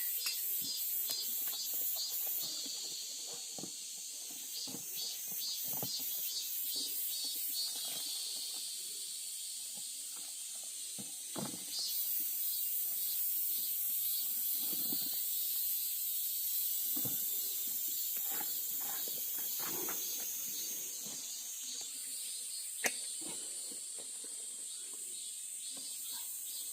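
A chorus of cicadas calling in a high, steady shrill that pulses rapidly for the first few seconds and shifts in pitch every few seconds. Faint rustles and soft knocks sound beneath it, with one sharp click near the end.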